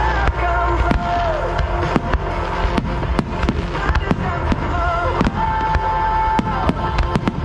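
Starmine firework shells bursting in quick succession, several sharp bangs a second, with rock music playing over them.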